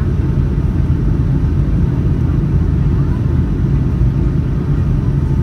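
Steady low rumble of airflow and jet engines inside the cabin of a Boeing 757 in flight.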